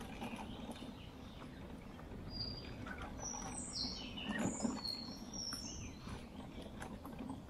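Birds chirping, a cluster of short high chirps and falling whistles in the middle, over a steady low rumble of riding along a gravel track.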